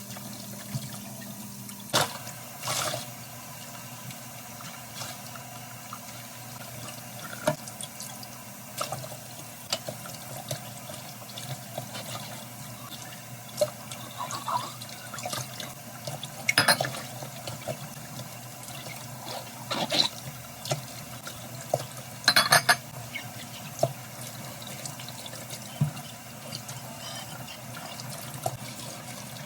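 Dishes being washed by hand at a kitchen sink: a tap running steadily, with scattered clinks and knocks of dishes.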